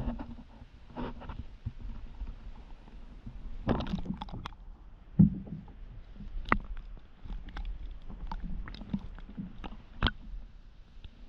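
Kayak being paddled on the water: irregular splashes and knocks, the loudest about five seconds in.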